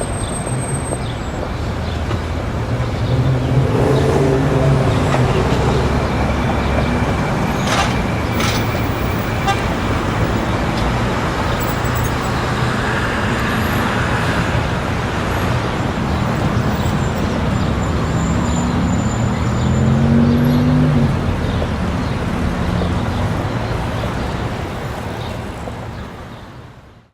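Busy city street ambience dominated by road traffic: a steady wash of passing cars, with engines swelling past twice and a car horn sounding briefly. The sound dips away at the very end.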